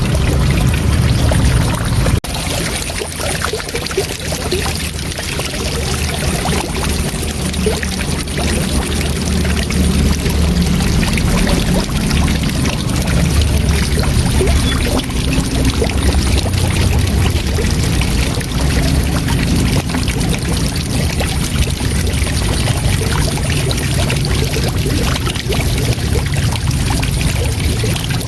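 Waterfall rushing steadily, a continuous deep roar of falling water, with a brief dip in level about two seconds in.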